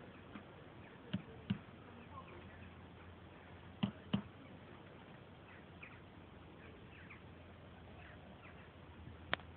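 Faint, short chirps of distant birds scattered throughout, with sharp clicks in pairs about a second in and near four seconds, and one more near the end.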